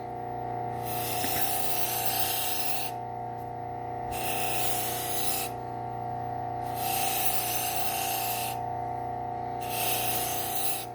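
Belt sander running with a steady whine and hum while the serrated edge of a Wusthof kitchen knife is drawn across the moving belt four times. Each pass is a hiss of grinding lasting one to two seconds.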